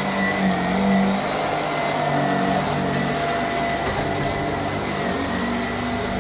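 Vacuum cleaner running steadily: an even motor whine with airflow hiss.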